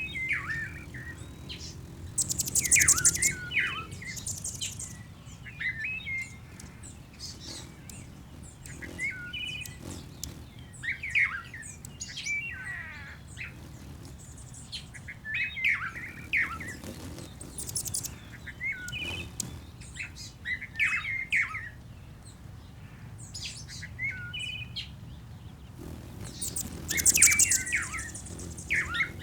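Bird-sound ambience: birds chirping in short, repeated phrases over a faint low rumble, with a loud, high, rapid trill about three seconds in and again near the end.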